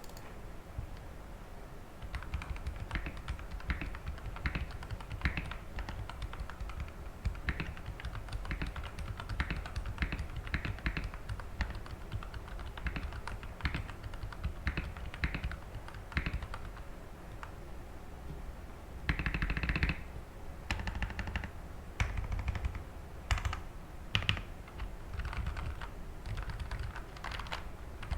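Typing on a Magegee MK-Box mechanical keyboard with lubed Akko Matcha Green linear switches and PE case foam: a steady run of irregular keystroke clacks starting about two seconds in, with a denser flurry of keystrokes about two-thirds of the way through.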